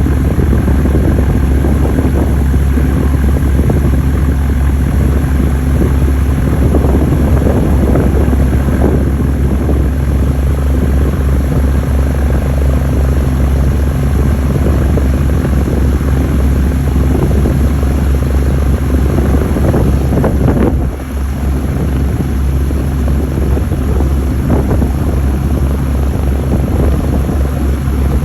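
Dauphin twin-engine helicopter's rotor and turbines running in a loud, steady low drone as it comes in to land. The sound dips briefly about 21 seconds in.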